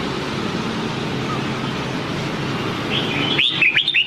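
Red-whiskered bulbul singing a short phrase of quick, arching whistled notes about three seconds in, over a steady background hum.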